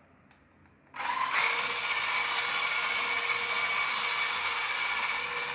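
Small electric motor and central gearbox of a 1/24-scale SG Pinecone Forest 2402 RC crawler starting up about a second in and running with a steady whine. The owner says this gearbox makes a weird noise, with vibration, when the truck drives forward.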